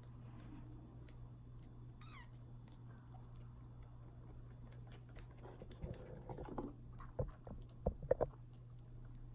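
A week-old kitten feeding: a faint, high, falling mew about two seconds in, then a run of wet smacking clicks and knocks from suckling, loudest about eight seconds in.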